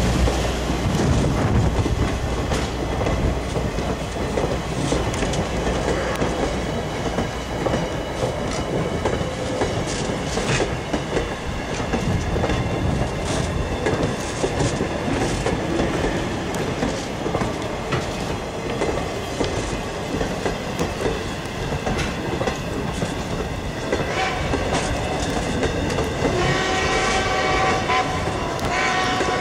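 Strasburg Rail Road No. 90, a 2-10-0 Decapod steam locomotive, running with its passenger train, the wheels clicking over the rail joints. Near the end, its steam whistle sounds a long, steady blast that lasts to the end.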